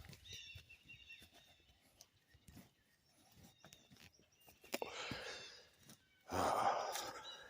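A person exhaling heavily twice, a softer breath about five seconds in and a louder, longer one about a second later.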